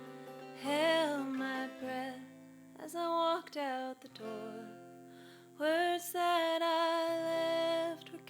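Acoustic guitar and fiddle playing the slow instrumental close of a folk song, the melody in a few phrases ending on one long held note.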